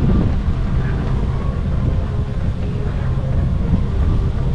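Strong gusty wind buffeting the microphone: a loud, steady low rumble that distorts the recording.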